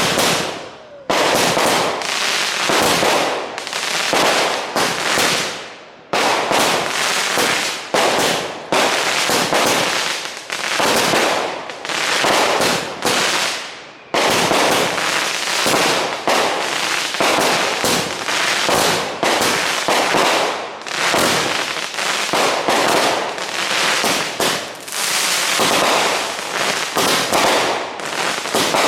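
Backyard consumer fireworks going off in rapid succession: a dense, unbroken volley of bangs and crackle that starts suddenly, with brief lulls about one, six and fourteen seconds in.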